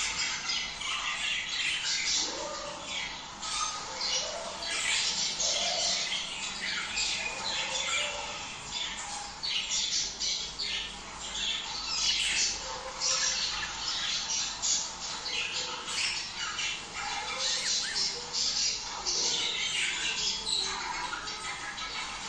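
A flock of budgerigars chattering continuously, with many short harsh squawks and chirps overlapping.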